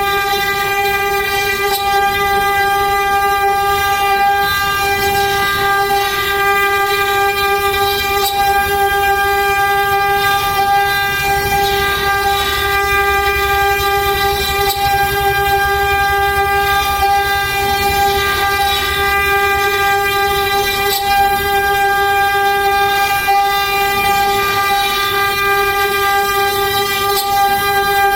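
CNC router spindle running with a steady high whine as it carves wood, with a rough cutting noise underneath.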